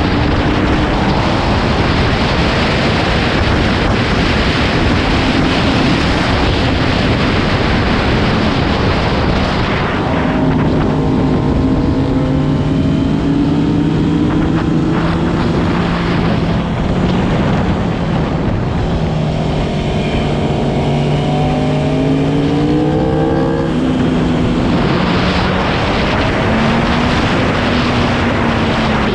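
A motorcycle at speed on a race track, with heavy wind rush over the engine. About ten seconds in the wind eases and the engine is heard rising in pitch through several pulls. It revs up sharply, then drops, before the wind rush returns near the end.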